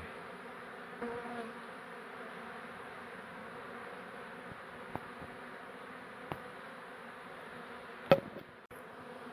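A colony of disturbed honeybees buzzing steadily as the hive is opened up. A couple of faint clicks and one sharp knock about eight seconds in.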